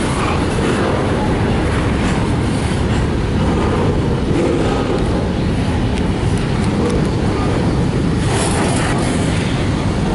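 Intermodal freight train of double-stack well cars loaded with shipping containers passing close by: steel wheels running on the rails in a steady, loud noise.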